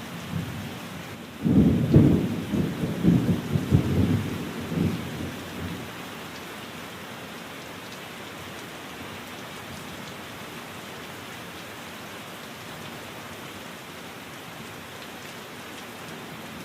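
Steady rain, with a roll of thunder starting about a second and a half in and rumbling for about four seconds before it fades back into the rain.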